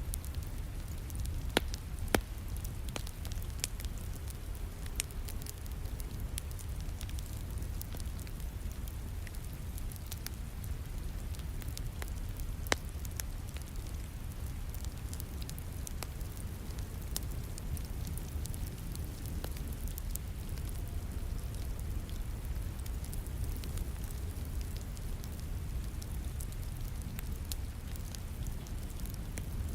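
Wood fire crackling and popping in a fireplace, with scattered sharp pops (the loudest near two seconds in and about halfway through), over a steady hiss of falling rain.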